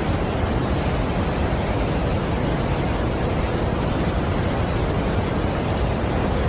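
Steady, unbroken rush of a large waterfall, Niagara Falls, a dense even noise heaviest in the low end with no changes.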